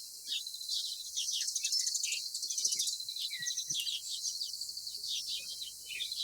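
Outdoor animal chirping: many short, high-pitched chirps over a steady high hiss.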